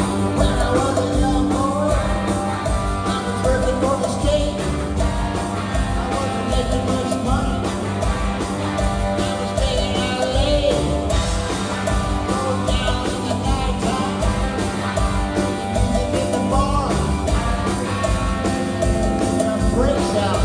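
Rock and roll music: a band playing over a steady beat, with singing.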